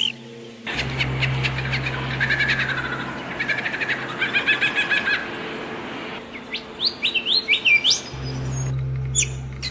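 Songbirds chirping and singing: fast trills of repeated notes, then a run of short rising whistled notes, over a steady low hum.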